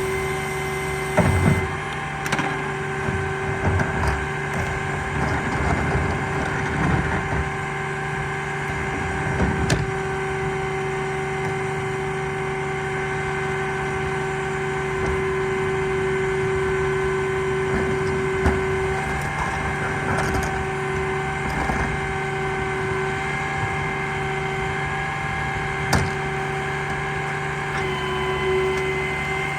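Garbage truck running with a steady whine, with clattering and knocks during roughly the first third and single sharp knocks around ten seconds in and near the end.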